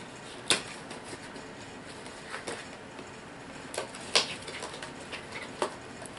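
Plastic packaging and miniature figures being handled as a HeroClix booster pack is opened, with about five sharp plastic clicks and clacks among quieter rustling.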